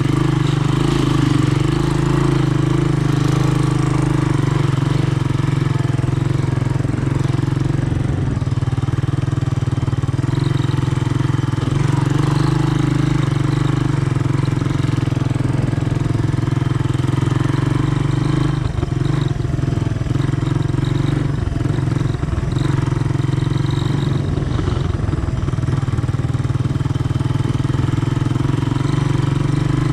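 Honda ATC 200M three-wheeler's single-cylinder four-stroke engine running steadily at a fairly even pitch, with a few rougher, uneven stretches in the second half.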